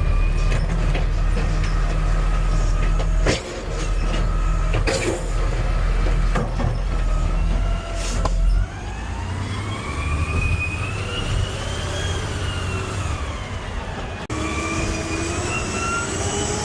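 Garbage truck's diesel engine running with a heavy rumble and a few clunks, then revving up and back down so its pitch rises and falls, twice.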